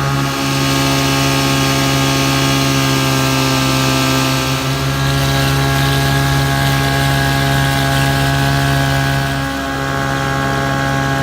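1965 Johnson JW-20 3 hp two-stroke outboard motor running at a steady speed, pushing an aluminum canoe.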